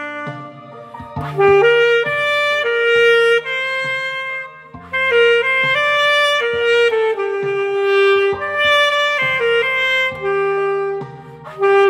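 Saxophone playing a slow song melody in held notes over an accompaniment with bass and chords.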